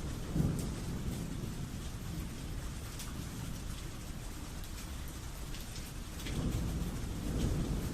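Steady rain falling with low rolling thunder, the rumble swelling about half a second in and building again over the last two seconds.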